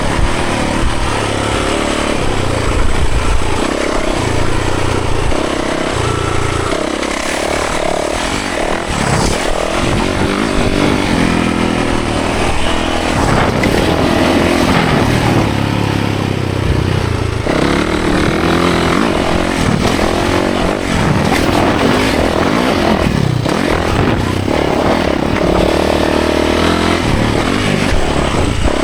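Yamaha 450 dirt bike's four-stroke single-cylinder engine being ridden, its pitch repeatedly rising and falling every few seconds as the rider revs up and shifts.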